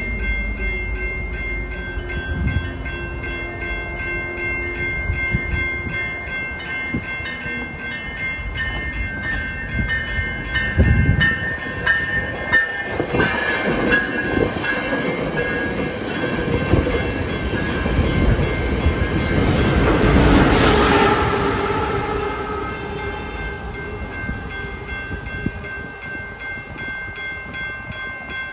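Grade-crossing bell ringing steadily in a fast, even rhythm while a Coaster commuter train of bi-level cars runs through the crossing. The train grows louder to a peak about two-thirds of the way in, then fades.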